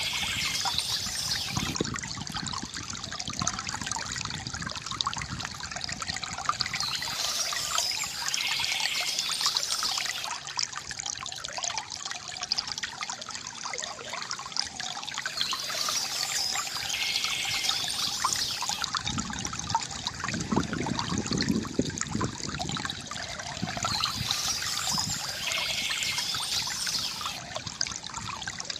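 Small stream trickling and babbling over stones in a steady wash of running water. It swells brighter in a cycle that repeats about every eight to nine seconds.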